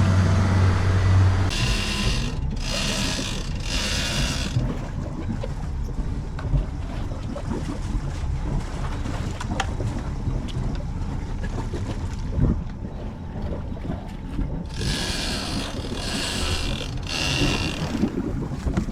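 Motorboat running under way: a steady low engine and water rumble, with loud hissing gusts of wind or spray hitting the microphone twice.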